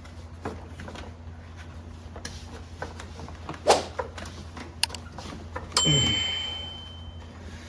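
Tools and parts knocking and clinking against metal while a hose is worked onto its fitting, with a louder knock a little under four seconds in. About six seconds in comes a sharp metallic clank that rings on with a clear tone for a second or so, over a steady low hum.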